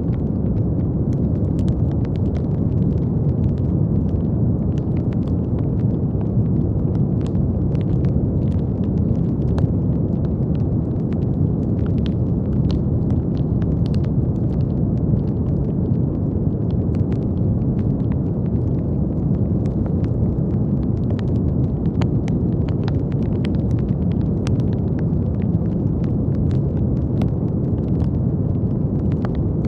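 Brown noise: a steady, deep rushing hiss weighted toward the low end, with faint scattered clicks over it.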